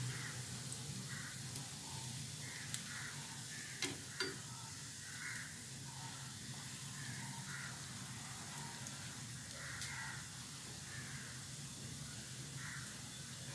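Bread koftas shallow-frying in hot oil in a nonstick pan, a steady sizzle, with a couple of sharp clicks about four seconds in.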